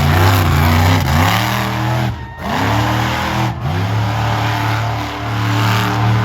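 Methanol fuel-injected monster truck engine revving hard. The throttle is lifted briefly three times, about a second in, after two seconds and after three and a half seconds, and each time the pitch dips and climbs back before holding high.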